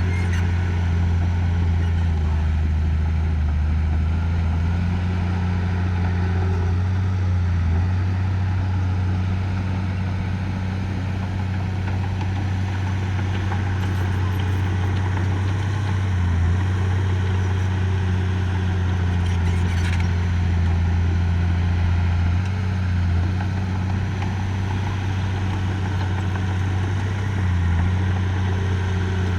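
Engine of heavy earthmoving equipment running steadily, a low hum with small shifts in pitch every few seconds as the load changes.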